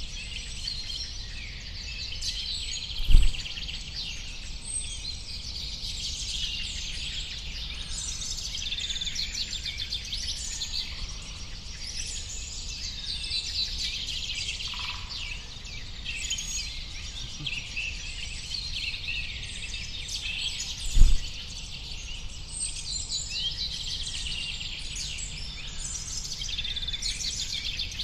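Dense chorus of many small birds chirping and trilling over a steady low background noise. Two brief, dull low thumps stand out, one a few seconds in and one about two-thirds of the way through.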